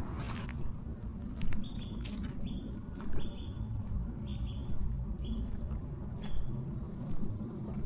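A small bird calling a short, high, clipped note over and over, roughly one every second, starting about a second and a half in. Under it runs a steady low rumble, with a few sharp clicks that are likely footsteps on the path.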